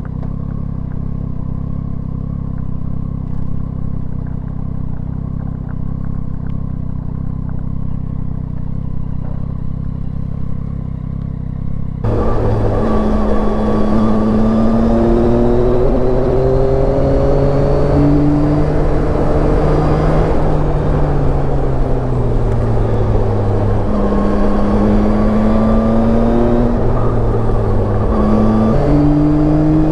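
Yamaha Tracer 9's three-cylinder engine under way on the road, its pitch rising under throttle and dropping at gear changes. For the first part it is muffled and low. About halfway through the sound suddenly turns clearer, with a strong rush of wind and road noise over the engine.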